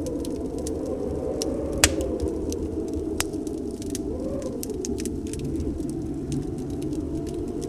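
Wood fire crackling with scattered sharp pops, the loudest a little under two seconds in and another about three seconds in, over a steady rush of snowstorm wind.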